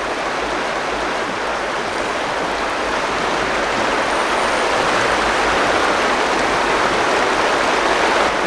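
Rushing river water, a steady hiss of current that grows slightly louder after a few seconds.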